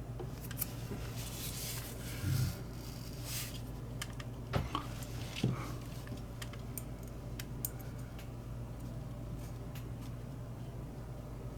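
Small lighter parts being handled and fitted by hand: scattered light clicks and taps with short bursts of rustling, two sharper clicks a second apart about halfway through, over a steady low hum.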